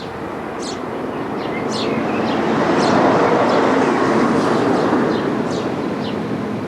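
A vehicle passing by, its rumble swelling to a peak midway and then fading, with birds chirping throughout in short, quick, falling notes.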